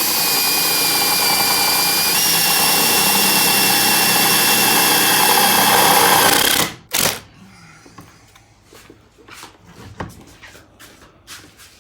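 Power drill running steadily for about seven seconds, its pitch stepping up about two seconds in, then a brief second burst. Light knocks and clatter follow.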